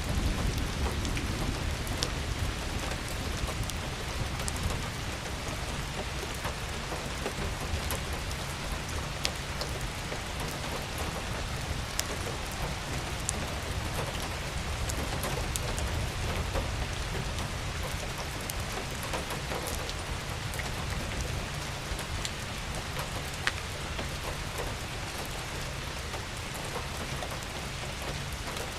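Steady rain falling, with scattered sharp ticks of single drops and a low rumble underneath.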